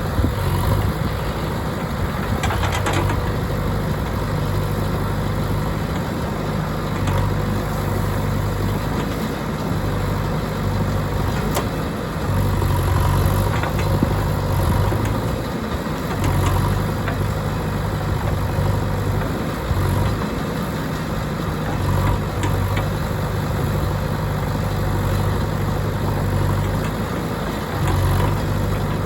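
JCB 3DX backhoe loader's diesel engine running under working load, its low note swelling louder and dropping back several times, with a couple of brief knocks.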